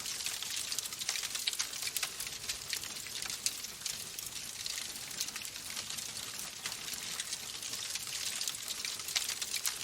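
Wood fire in a fireplace crackling: a steady stream of small, sharp pops over a soft hiss.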